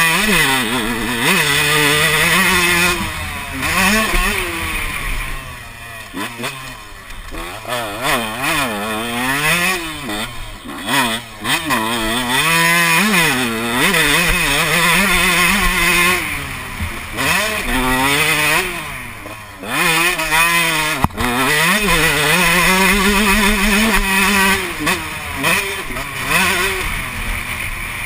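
Motocross bike's engine being ridden hard, revving up and dropping back over and over as it goes through the gears and throttles off, with a constant rushing noise over it.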